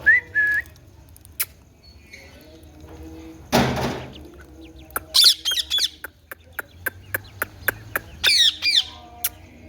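Indian ringneck parrot calling: a short rising whistled note at the start, a loud harsh noisy burst about three and a half seconds in, then high squawks with falling pitch around five seconds and again near the end. Sharp clicks come in a quick run between the squawks.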